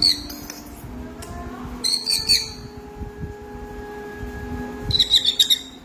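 Baby sun conure calling in three short bursts of shrill, raspy chirps: one at the start, one about two seconds in, and a quick string of calls near the end.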